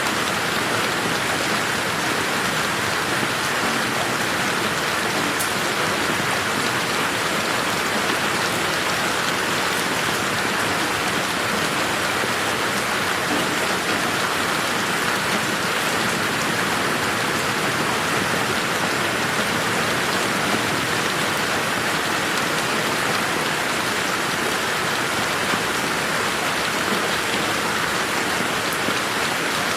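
Steady rain falling in a garden, an even hiss of drops on surfaces with no thunder.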